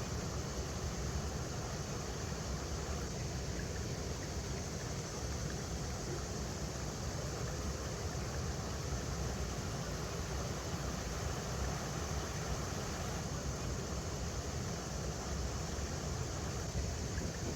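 River water running steadily over rocks: an even rushing with a strong low rumble.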